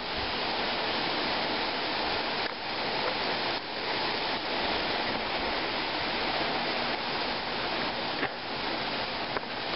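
Heavy rain pouring down hard in a steady, even rush.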